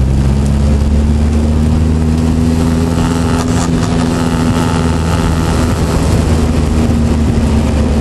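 Alpine A110 turbo's four-cylinder engine running steadily at low revs, heard from inside the cabin as the car rolls slowly.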